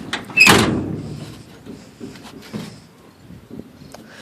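A metal trailer clanking as it tips backwards under a person's weight: one loud knock about half a second in, a rattle dying away over about a second, then a few light knocks.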